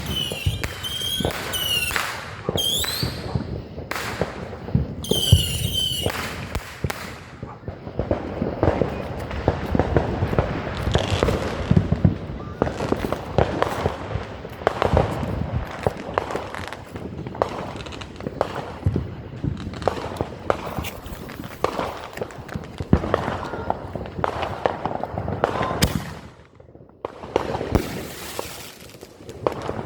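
Consumer fireworks going off in quick succession: a dense stream of pops and crackling, with short repeated whistles during the first several seconds, and a brief lull near the end.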